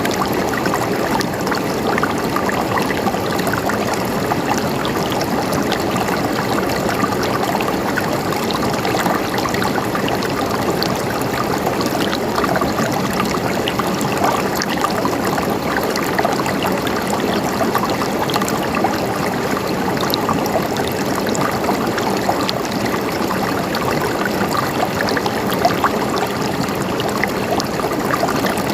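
River water running steadily over rocks, a continuous rushing splash with small bright splashes and trickles throughout.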